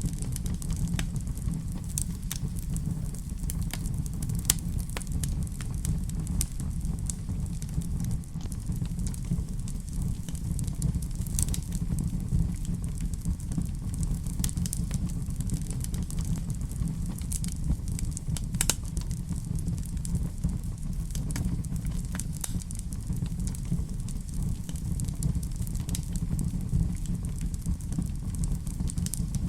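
Wood fire in a fireplace crackling steadily, with scattered sharp pops over a low, even rumble of the flames.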